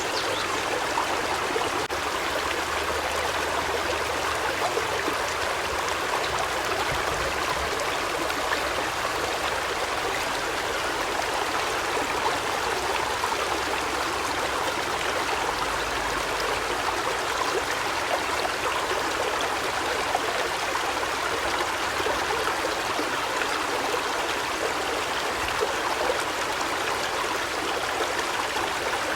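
Running water splashing steadily, an even rushing sound with a fine patter through it.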